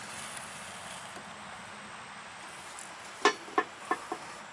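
Steady hiss, then four short sharp metallic clicks over about a second, starting about three seconds in: tools or small metal parts knocking together during work on the car.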